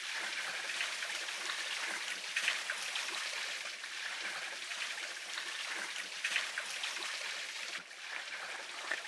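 Running water trickling and splashing steadily, as from a stream or a roadside spring.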